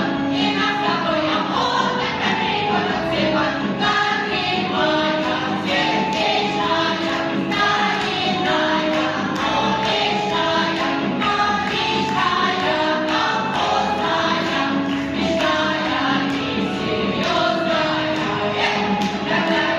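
A choir or vocal ensemble singing a song with musical accompaniment, the voices holding long notes together.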